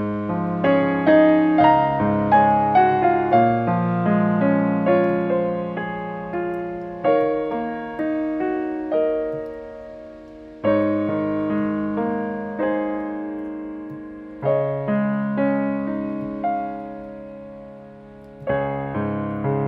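Background piano music, slow and gentle: chords struck and left to ring, with a run of quicker notes in the first few seconds.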